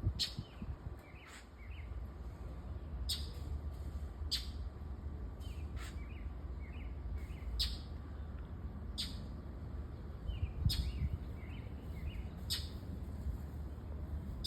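A bird giving repeated sharp scolding calls, roughly one every second and a half, with softer chirps between them, as it mobs a cat to drive it off its territory.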